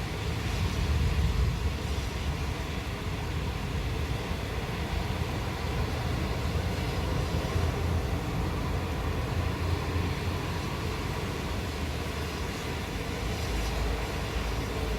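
Steady rain with a continuous low rumble of rolling thunder that swells about a second in and again near the end.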